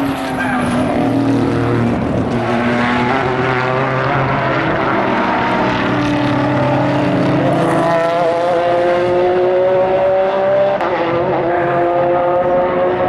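Several endurance racing car engines running together, their pitches climbing steadily as the cars accelerate.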